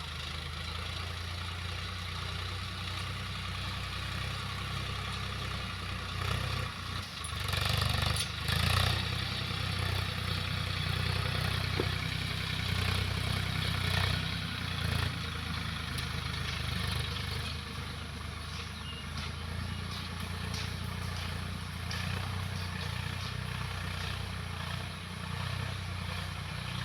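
Swaraj tractor's diesel engine running steadily, growing louder for a few seconds about seven to nine seconds in.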